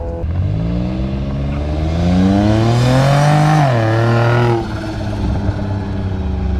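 Sports car engine accelerating past on a race track, its note rising steadily for about three seconds, then dropping sharply and holding briefly before fading as the car moves away. A steady low engine drone runs underneath.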